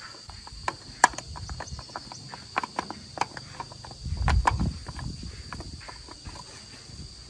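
Irregular clinks and knocks of tools and metal parts being handled, with a heavier, low thud about four seconds in. A steady high insect drone runs underneath.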